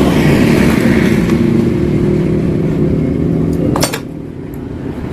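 Yamaha RX-King's two-stroke single-cylinder engine running loudly through its hollowed-out exhaust, then easing off about four seconds in.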